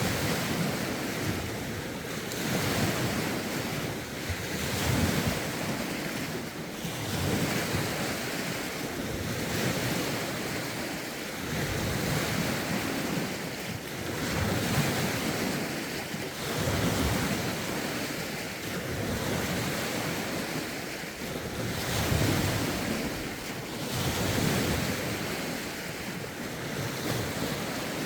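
Lake waves washing onto the shore, swelling and easing every two seconds or so, with a rough wind buffeting the phone's microphone.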